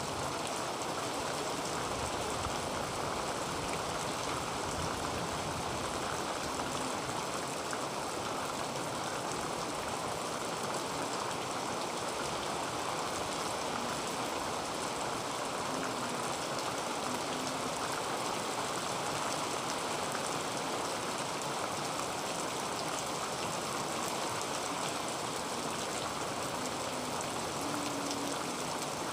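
Heavy rain falling steadily on a tin roof: a dense, even hiss of drops with fine pattering ticks, unchanging in strength.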